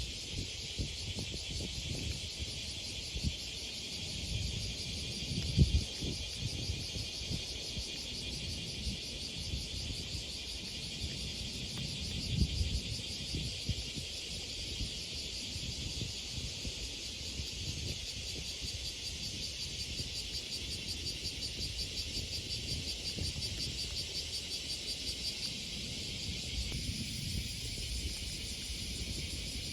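A steady, shrill chorus of insects chirring with a fine rapid pulse. Low rumbles and thumps come and go underneath, the strongest about 6 and 12 seconds in.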